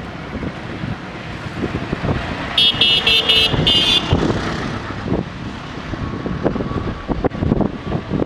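Diesel engine of a SANY SAG160-5 motor grader running under load with wind on the microphone. About two and a half seconds in, a horn toots about five times in quick succession, high-pitched.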